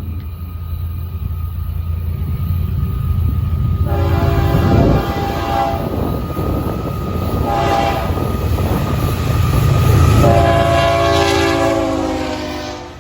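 Air horn of a Florida East Coast GE ES44C4 freight locomotive sounding a long blast, a short one and a final long one, the close of the standard grade-crossing signal. Under the horn the diesel engines run with a steady low rumble that grows louder as the train approaches.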